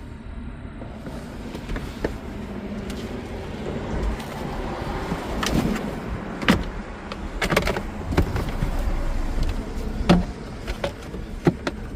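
Hands handling and fitting interior parts in a car, with rustling and scraping and several sharp plastic knocks and clicks, a few of them louder about halfway through and near the end.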